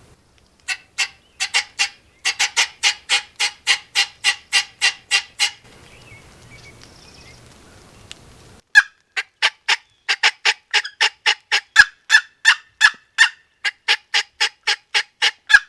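Turkey yelping: a fast run of sharp, evenly spaced yelps, about four a second, then a pause of about three seconds and a second, longer run.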